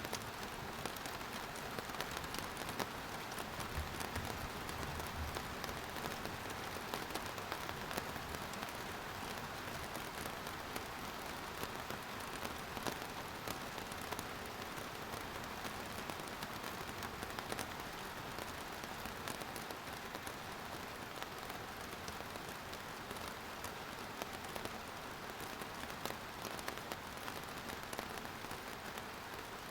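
Steady rain falling, a dense patter of drops hitting surfaces, with a brief low rumble about four seconds in.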